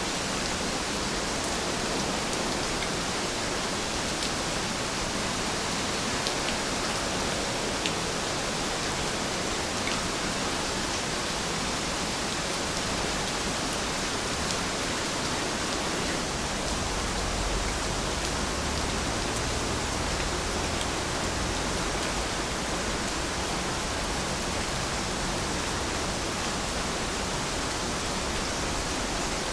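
Heavy rain falling steadily, with faint drop ticks in the hiss. A brief low rumble comes in about seventeen seconds in.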